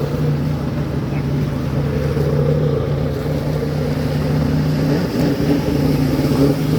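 A steady motor running with an even hum.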